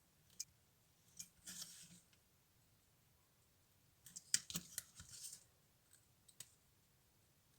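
Quiet handwork on a small model: a few sharp clicks, with two short clusters of crisp clicking and rustling about a second in and again around four seconds in.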